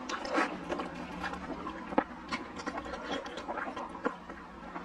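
Close-miked chewing of chewy, sauce-coated pig skin: a steady run of short, wet, irregular smacks and clicks from the mouth, with sticky squelches from the food being pulled apart in gloved hands.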